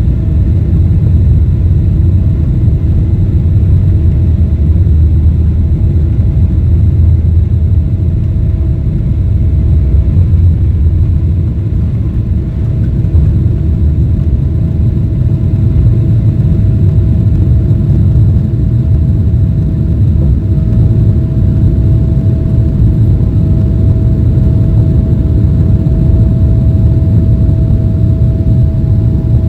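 Boeing 777-300ER cabin noise: a steady low rumble of the engines and rushing airflow, with a faint steady whine above it.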